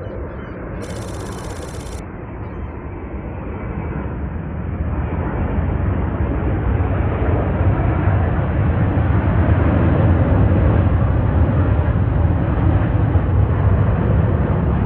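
Jet airliner engines approaching, a deep rumble that grows louder over the first several seconds and then holds steady.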